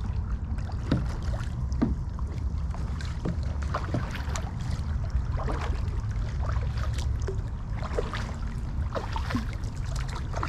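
Kayak paddle dipping and dripping in the water with each stroke: a run of small irregular splashes over a steady low rumble.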